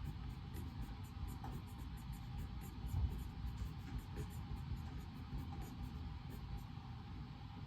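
Writing on paper, many short scratchy strokes, over a steady low hum of room ventilation, with one soft thump about three seconds in.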